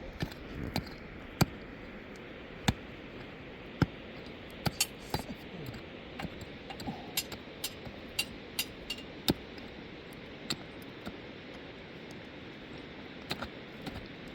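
Irregular sharp clicks and light knocks, about two dozen of them and sometimes several in quick succession, over a steady faint hiss.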